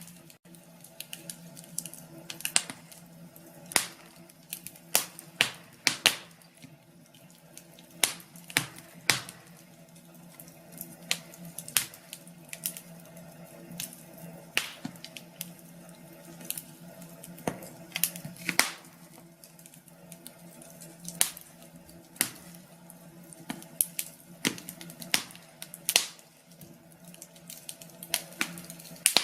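Wood fire crackling in a fireplace: irregular sharp pops and snaps, several a second, over a faint steady background.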